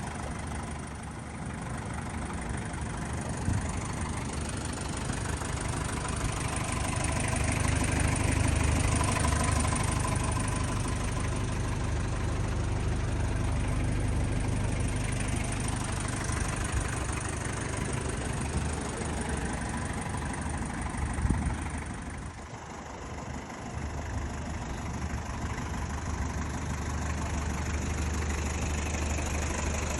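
Mazda Bongo Brawny's four-cylinder R2 diesel engine idling steadily, with a diesel's knocking clatter; the level dips briefly about three quarters of the way through.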